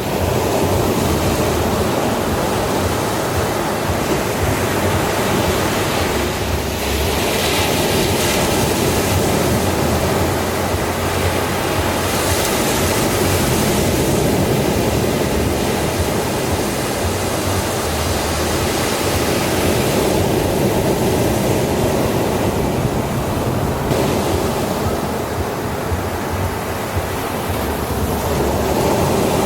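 Ocean surf washing continuously, swelling with a brighter hiss every few seconds as waves break.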